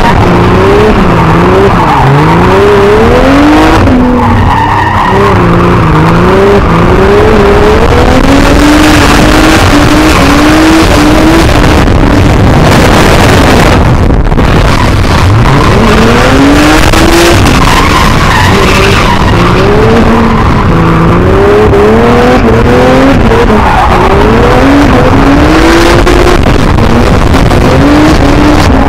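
Twin-turbo Nissan 370Z's 3.7-litre V6 at full throttle while drifting, loud, its revs climbing and dropping over and over, with the rear tyres skidding and squealing.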